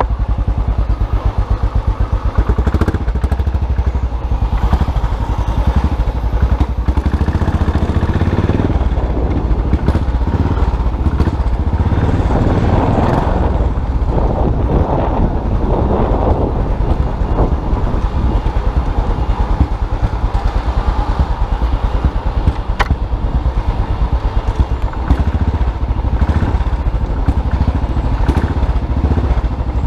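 Custom motorcycle engine running steadily while riding, with a fuller, louder stretch for a few seconds midway.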